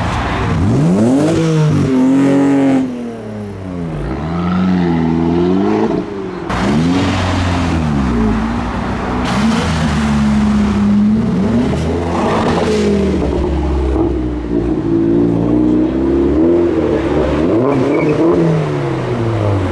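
A modified car's engine being revved over and over, its pitch climbing and falling back many times in quick succession.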